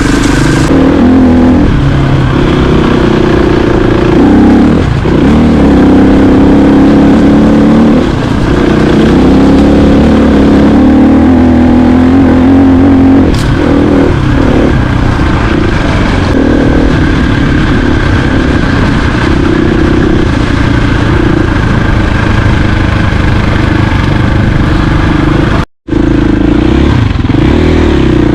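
Dirt bike engine running under way, its pitch rising and falling with the throttle and dipping briefly a few times. The sound cuts out for an instant near the end.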